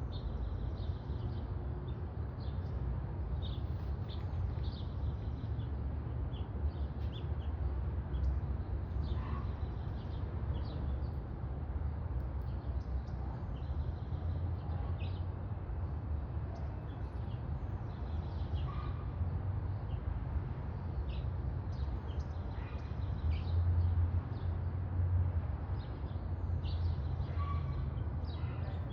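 House finches giving short, high chirps, scattered throughout, over a steady low rumble.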